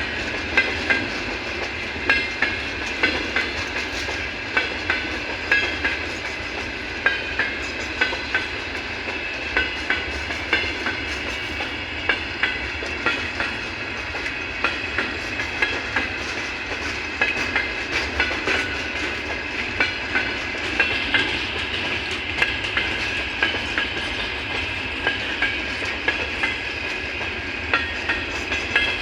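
Freight train's steel wheels clattering over the rail joints as it rolls through without stopping: a steady rolling noise broken by a quick, uneven run of sharp clicks, the loudest coming about once or twice a second.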